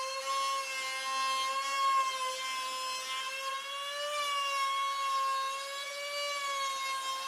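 Electric power tool running steadily on wood: a constant motor whine whose pitch wavers slightly as it works, over a light hiss.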